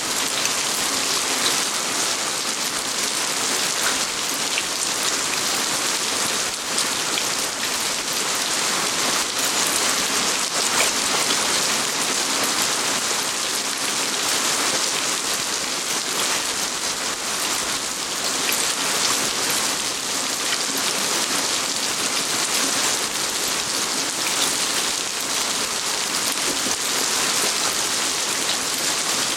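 Steady rain falling outdoors: an even hiss of many small drop impacts that holds at the same level throughout.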